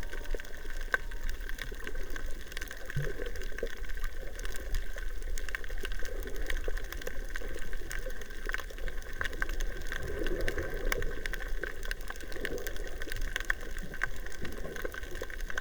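Underwater recording on a coral reef: a steady hiss with many scattered sharp clicks, and a few soft gurgling swells of water or bubbles.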